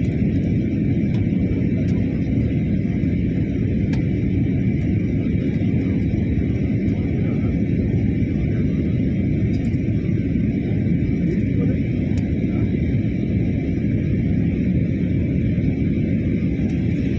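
Steady low rumble inside an airliner's cabin in flight: engine and airflow noise, with a faint steady high whine.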